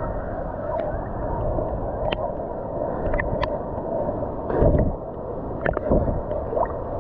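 Ocean water sloshing and gurgling around a swimmer, muffled, with scattered small clicks and a heavier splash-like thump about two-thirds of the way in.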